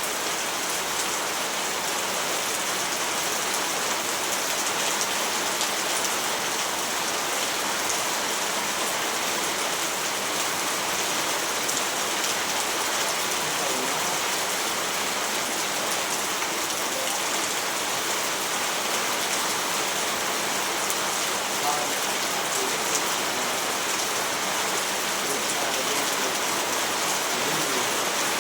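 Steady rain falling, a dense even hiss of drops with fine patter.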